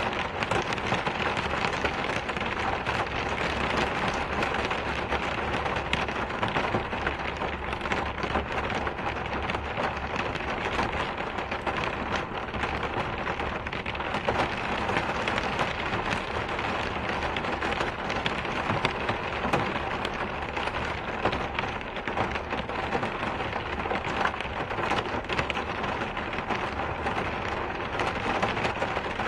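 Steady, continuous rain falling, with a dense spray of individual drop hits over an even hiss.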